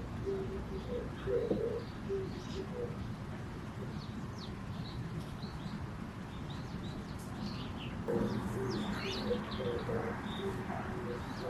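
Birds calling: low repeated notes in two stretches, near the start and again from about eight seconds in, with short high chirps scattered throughout over a steady low background noise.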